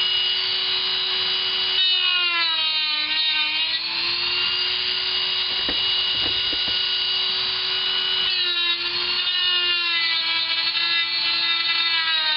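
Dremel rotary tool cutting into a laptop's plastic bottom case: a steady high whine whose pitch sags twice as the bit bites into the plastic and then recovers, with a few small knocks in the middle. The cut is melting the plastic rather than cleanly sawing it.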